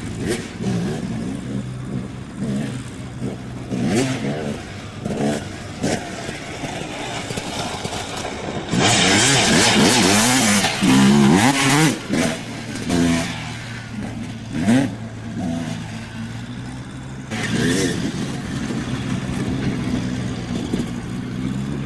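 Dirt bike engines revving up and down as the bikes ride the track, the engine pitch rising and falling repeatedly. About nine seconds in the sound gets much louder for roughly three seconds.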